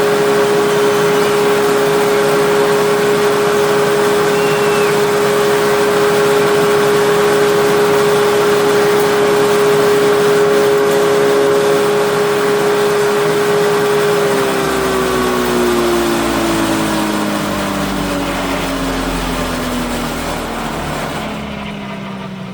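Electric motor of a rice separating machine running at a steady speed with a loud hum. About two-thirds of the way through it is switched off, and the pitch falls steadily as it coasts down.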